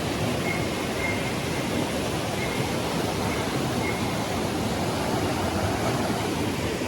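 Steady rushing water in a mountain gorge, a constant even roar. A few faint short high notes sound over it in the first few seconds.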